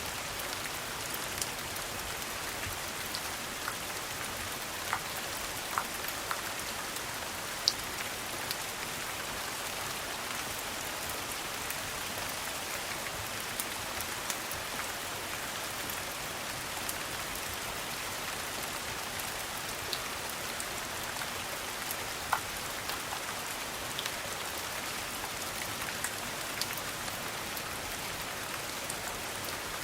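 Steady rain patter, with scattered sharp crackles and pops from a wood fire.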